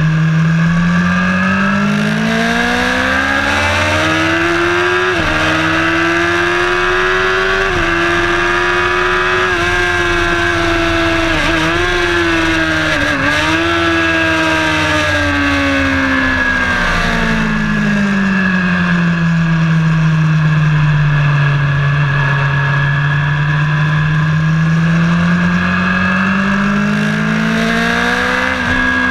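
Engine of a vehicle lapping a race track, heard onboard. The revs climb through the gears with quick dips at the upshifts about 5 and 8 seconds in, hold high, then fall away over several seconds and build again near the end, over steady road and wind noise.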